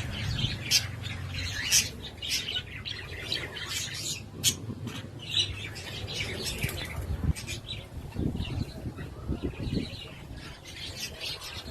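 Jandaia parakeets calling: many short, sharp squawks and chirps in quick, irregular succession.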